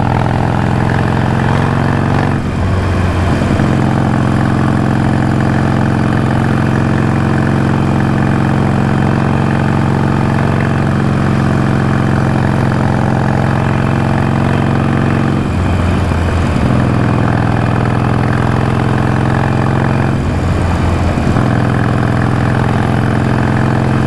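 Harley-Davidson Iron 883's air-cooled V-twin running loud and steady under way, its note changing briefly three times: about two, fifteen and twenty seconds in.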